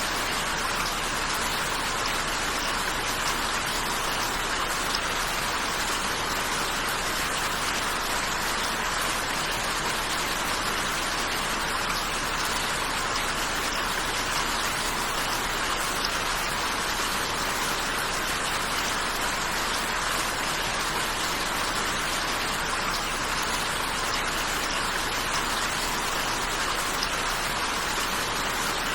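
Steady rain falling and pattering on a surface, an even hiss that does not change.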